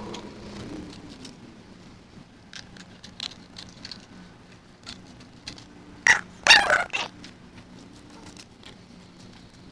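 Chickens clucking, with a louder burst of calls about six seconds in.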